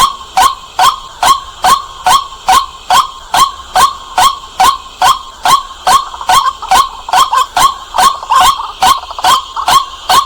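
White-breasted waterhen giving its loud, clear repeated 'kwak' call, between two and three notes a second in a steady run, with a few quick doubled notes in the second half.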